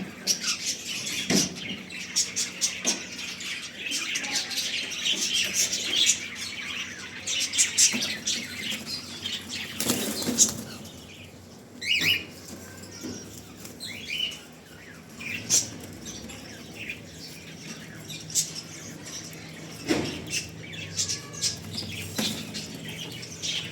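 A flock of cockatiels, adults and young, chirping in a cage, with wings flapping now and then. The chirps come thick and fast through the first half and grow sparser later, with a few louder bursts of flapping.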